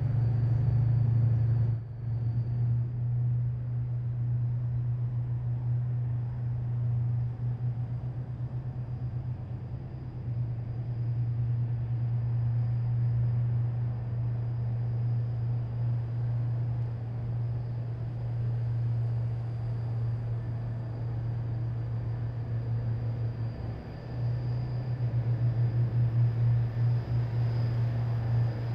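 Heavy military vehicles' engines rumbling steadily as a column passes, a deep continuous drone that dips briefly twice and grows louder again near the end.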